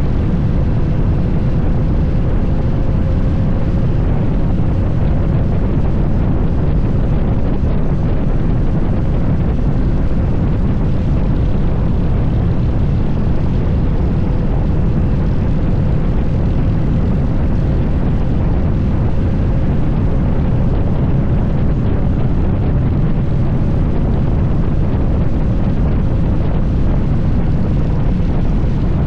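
Harley-Davidson Fat Bob 114's Milwaukee-Eight V-twin running at a steady cruise, a loud, even low drone with a faint steady hum above it.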